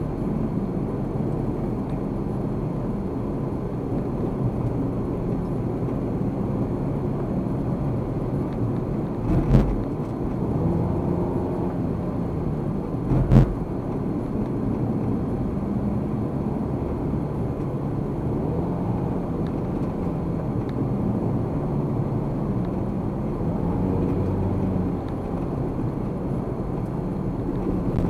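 A car driving, heard from inside the cabin: a steady low engine and road rumble. Two short thumps come about nine and thirteen seconds in.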